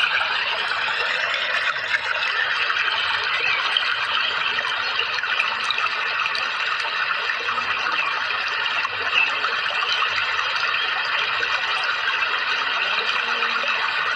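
Steady flowing water, an even splashing rush like a stream or small waterfall.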